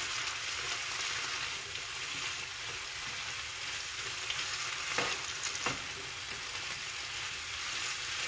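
Turkey sausage and potato hash sizzling in a large pan on high heat, cooking off its liquid to crisp, as a spatula stirs and scrapes through it. Two short knocks about five seconds in.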